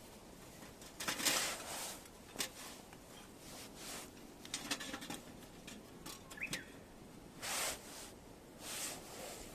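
Campfire activity at a small folding fire pit: a few short rustling, scraping noises and scattered sharp snaps, with one brief chirp about six seconds in.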